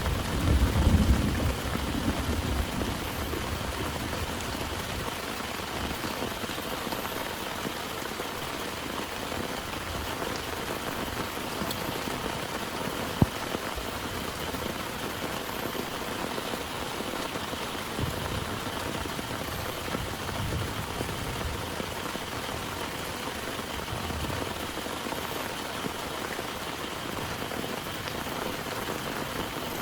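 Heavy rain falling steadily, with the last of a thunder rumble dying away in the first few seconds. A single sharp tap stands out about halfway through.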